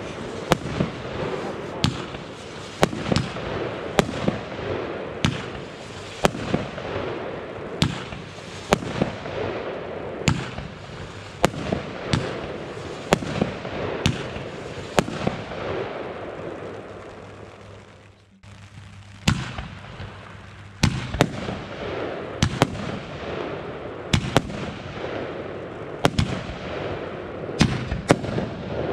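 Consumer fireworks going off: a steady series of sharp bangs, roughly one or two a second, with crackling between them. The firing fades out about two-thirds of the way through, and after a short gap a new series of bangs begins.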